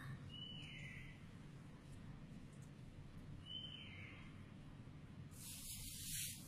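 A bird calling twice, each call a short falling whistle, about three seconds apart, then a brief hiss near the end over a faint low room hum.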